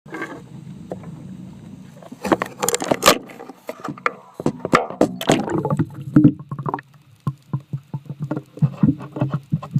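Water sloshing with irregular knocks and clicks, heard through an underwater camera housing; a low steady hum for the first two seconds, then the knocks come thick and uneven.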